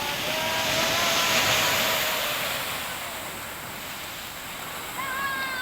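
A big ocean wave breaking and rushing up the beach: the surf noise swells to a peak about a second and a half in, then fades as the water washes back.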